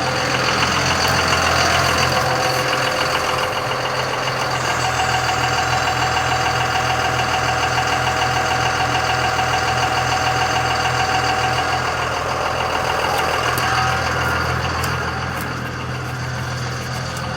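Truck engine idling steadily, a constant low hum with a steady tone layered above it.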